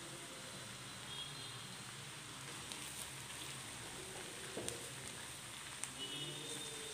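Ginger-garlic paste sizzling in hot oil, butter and onions in a frying pan as it is stirred in with a wooden spoon, with a few light clicks.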